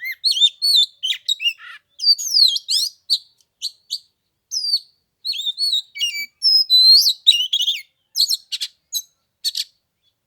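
Oriental magpie-robin singing: a fast, varied run of clear whistles, rising and falling slurs and sharp chirps in short phrases, stopping near the end.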